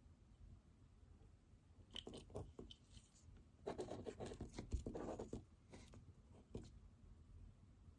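Faint pen writing and scratching on paper, with a few light taps, and a louder spell of scribbling in the middle.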